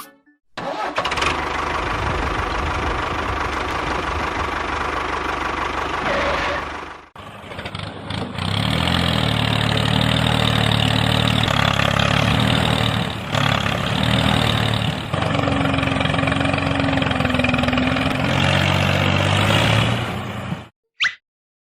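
A small motor running in stretches under varying load, dropping out briefly about seven seconds in and stopping just before the end.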